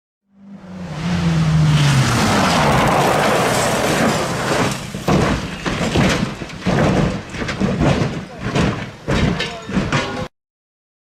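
Vehicle crash: a brief low falling tone, then a loud rush of noise for about four seconds, then a string of sharp bangs and clattering knocks that cuts off suddenly.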